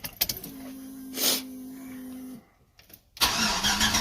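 Ignition switched on for a cold start of a C10 pickup's LS-swapped V8, after months without running: a few clicks, then a steady electric hum for about two seconds. Near the end the starter begins cranking the engine.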